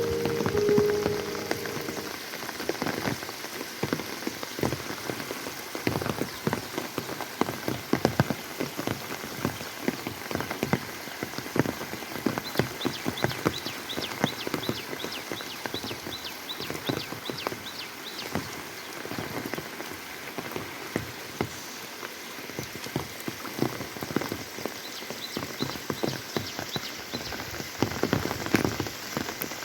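Heavy rain falling and splashing on surfaces, a steady dense patter of individual drops. Midway through, and again near the end, a fast run of short high-pitched ticks sounds over the rain.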